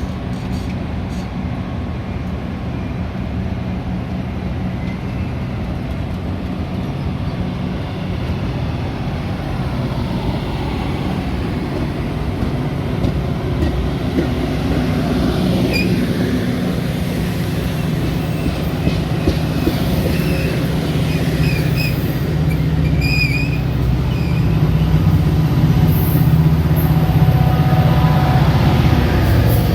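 Metra commuter train running, its low rumble slowly growing louder, with short high-pitched wheel squeals in the second half.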